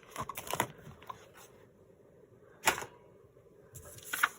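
Handling of paper and washi tape on a craft desk: a few soft rustles, one sharp click or rip about two and a half seconds in, and a short cluster of rustles and taps near the end.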